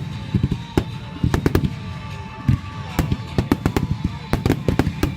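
Fireworks finale barrage: a rapid run of shell bursts and bangs, several a second, over a continuous low rumble, with faint gliding tones in the background.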